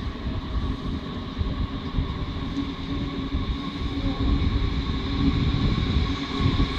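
S-Bahn electric multiple unit approaching and drawing alongside the platform: a low rumble from the wheels with a steady electric whine on top, growing a little louder in the second half.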